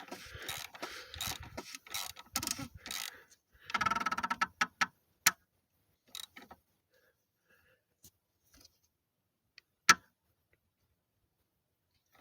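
Ratchet wrench clicking in quick runs while tightening a plastic cartridge oil filter cap. The clicks are densest about four seconds in, then thin out to a few single clicks, with a sharp one near ten seconds.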